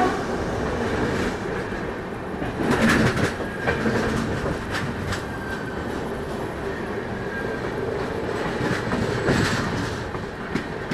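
Uday Express double-decker coaches running past close alongside on the next track: a steady rumble of the moving train with wheels clattering over rail joints, a few sharper clacks standing out.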